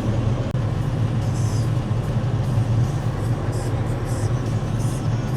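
Boom truck engine running with a steady low hum, with a few short hisses over it.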